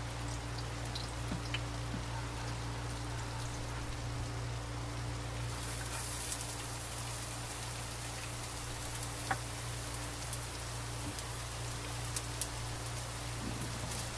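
Hot oil sizzling in a nonstick wok, the sizzle growing louder and brighter about five seconds in as chopped garlic goes into the oil and is stirred with a plastic spatula. A steady low hum runs underneath.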